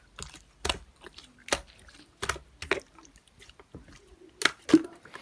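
Slime being squeezed and poked, giving a series of separate sharp, wet clicks and pops about a second apart, with two close together near the end.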